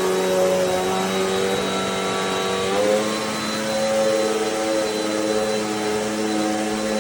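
Amazon Basics upright bagless vacuum cleaner (720 W) running steadily, its motor hum stepping up in pitch about three seconds in.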